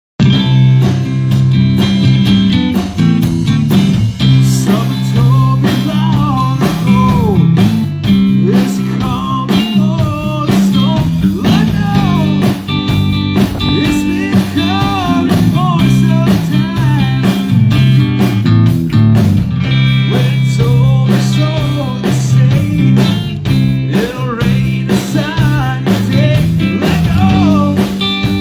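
Live blues-rock band playing: electric guitar lead lines bending over a steady bass and drums.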